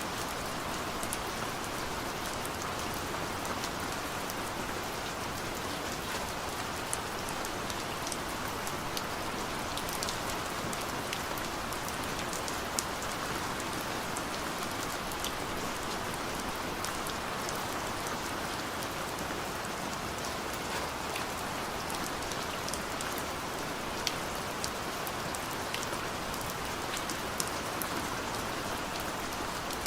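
Heavy rain pouring steadily, an even hiss with scattered sharp drop ticks.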